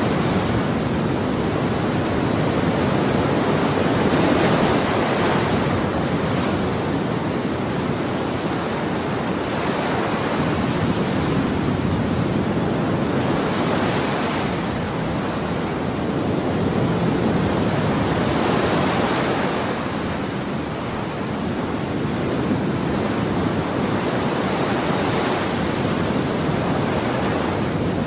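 Ocean surf: waves breaking and washing ashore in a continuous rush that swells and falls back every few seconds.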